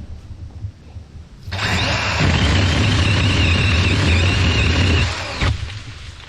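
DeWalt 20V brushless battery pole saw running for about four seconds with a steady high motor whine. It starts suddenly and cuts off sharply as the trigger is pulled and released.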